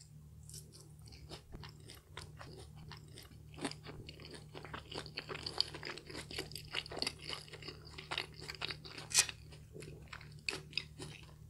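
Close-up chewing of a mouthful of KFC Zinger tortilla wrap with crispy fried chicken fillet: irregular crunching that grows denser after a few seconds, with one sharp, louder crunch about nine seconds in.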